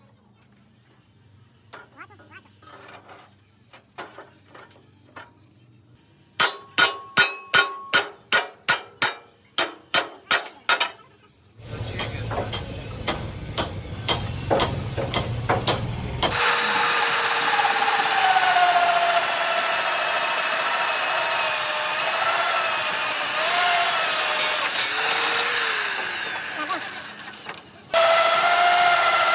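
A series of sharp hammer blows on steel, about two a second, each ringing briefly. Then a power tool runs on metal, its whine dipping and rising under load. It cuts out for a moment near the end and starts again.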